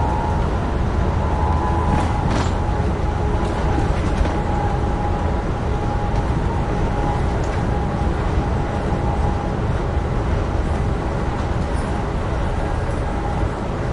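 Amtrak Northeast Regional passenger train running at speed on the Northeast Corridor: a steady rumble of wheels on rail, with a faint steady high tone and a couple of light clicks.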